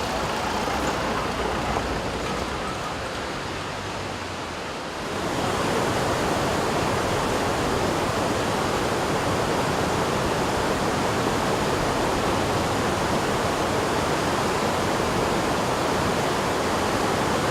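Steady rushing noise with no tones in it, which grows louder and fuller about five seconds in.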